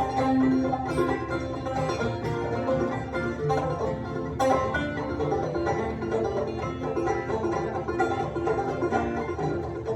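Clawhammer banjo with a real skin head and an acoustic guitar playing an instrumental old-time tune together, the banjo picking a busy melody over steady guitar backing.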